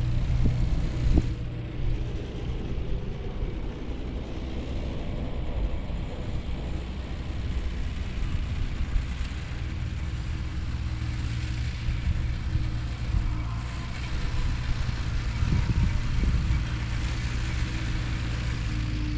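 Ford 9N/2N tractor's four-cylinder flathead petrol engine running steadily, a low even hum, a little louder in the first two seconds.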